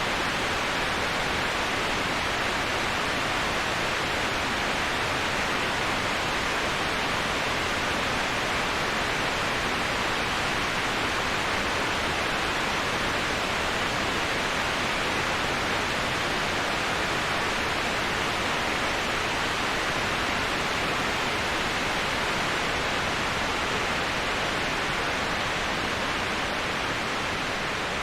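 Waterfall white noise: a steady, even rush of falling water with no breaks or changes, dipping slightly in loudness near the end.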